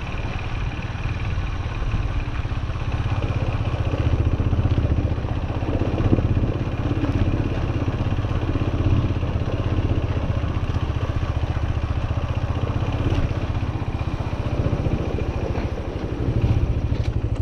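Farm motorbike engine running steadily, with a few brief swells in loudness.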